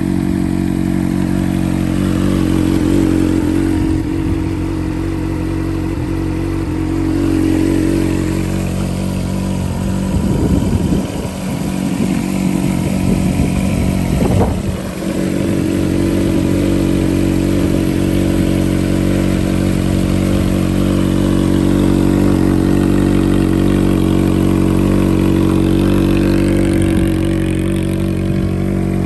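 A 1985 Honda CBR400F's air-cooled four-stroke inline-four engine idling steadily. It is revved in quick blips about ten seconds in and again around fourteen seconds, then settles back to a smooth idle. The engine sounds healthy and runs well.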